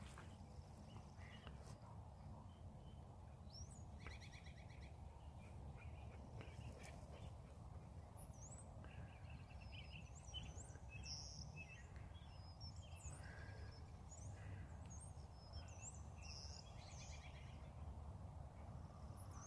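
Faint outdoor ambience: small songbirds chirping and trilling at intervals over a low steady rumble.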